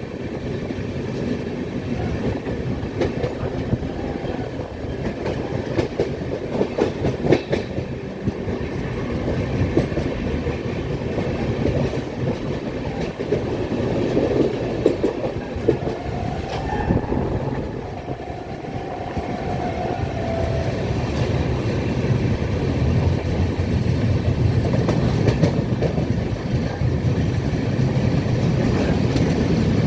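Train running along the track, its wheels clattering over the rail joints in a steady run of clicks. A faint high tone sounds for a few seconds around the middle.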